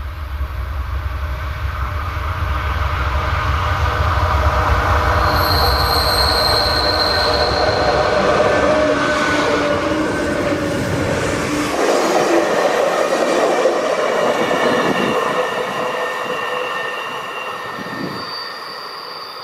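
Amtrak passenger train passing close by on a curve: a deep rumble for the first two-thirds that drops away suddenly, with steady high squealing tones from the wheels. The sound then fades as the train pulls away.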